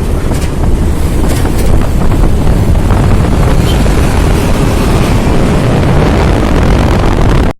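Scania P380 heavy truck running under load, a loud low rumble of engine and road noise that cuts off suddenly near the end.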